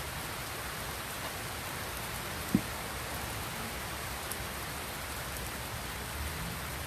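Steady rain falling, an even hiss with no let-up, broken by a single short knock about two and a half seconds in.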